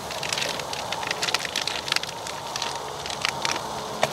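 Food frying in butter in an emptied Jiffy Pop foil pan on a portable camp stove, sizzling with many quick, irregular crackles and pops.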